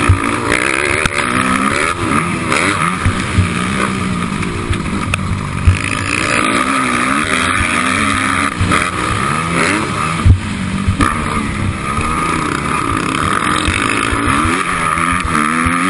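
Motocross dirt bike engine revving up and down repeatedly as the rider works the throttle around the track, with occasional sharp thumps.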